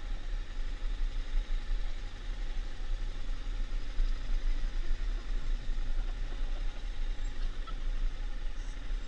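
Motorcycle engine running slowly at low revs as it creeps down a steep, winding street, a low rumble with an unsteady level.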